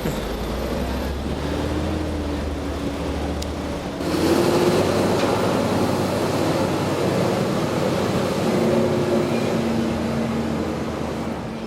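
Garbage truck's diesel engine running, getting louder about four seconds in.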